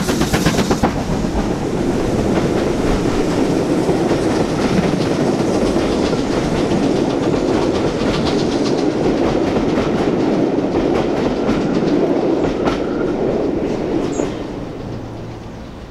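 A steam-hauled rake of passenger coaches rolling past on the track, its wheels clicking over the rail joints. It opens with the last rapid exhaust beats of the BR Standard Class 7 Pacific locomotive, and the rumble fades as the train draws away near the end.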